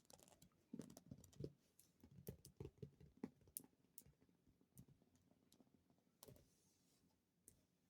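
Fast, irregular tapping on a small object: quick bursts of light taps, thinning out to a few single taps near the end.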